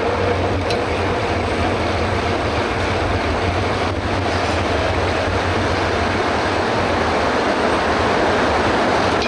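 Steady rush of wind on the microphone mixed with tyre noise from a mountain bike ridden fast on a paved road.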